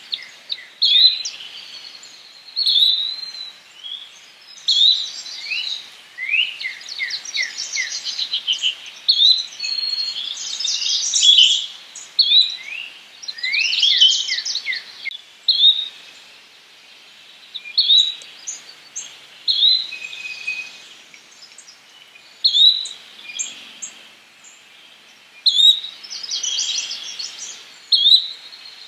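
Yellow-bellied flycatcher calling: short, sharp notes repeated every second or two, with several bursts of quick sweeping notes in between.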